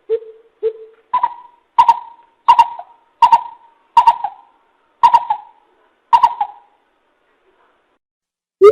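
Coucal (bìm bịp) calling: a series of about nine deep hoots, the first two lower and the rest higher in pitch, stopping a couple of seconds before the end.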